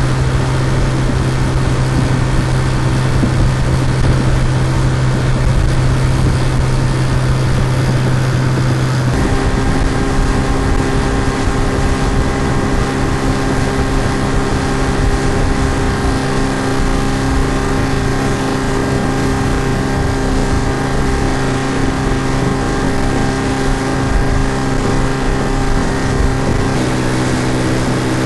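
Looped sound effect of an outboard motor running steadily at speed. Its pitch pattern shifts abruptly about a third of the way in and again near the end.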